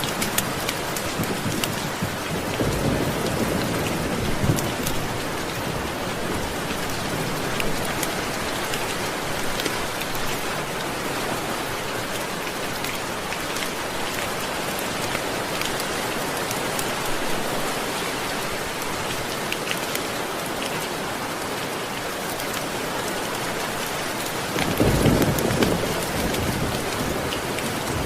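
Steady rain with scattered sharp ticks, and thunder rumbling low twice: once about three seconds in and again near the end.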